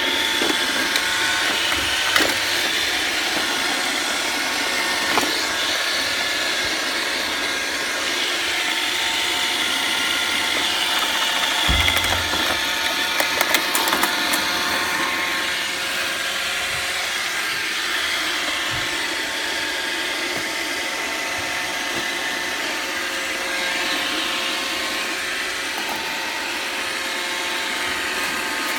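iRobot Roomba robot vacuum cleaning: a steady whir of its vacuum motor and brushes with several whining tones, broken by a few knocks and a low thump about halfway through.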